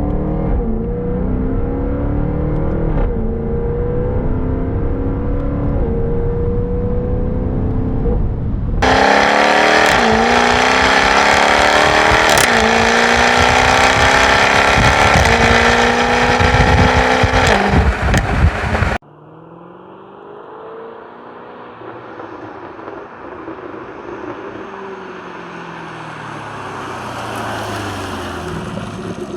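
2015 Jaguar F-type R's supercharged V8 with its factory active exhaust, accelerating through the gears: the engine note climbs, then drops at each upshift. About nine seconds in it turns suddenly louder and brighter. Around two thirds of the way in it drops to a quieter, more distant engine sound that slowly rises and falls.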